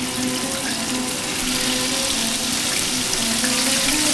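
Raw chicken breasts sizzling in hot oil in a frying pan, a steady hiss.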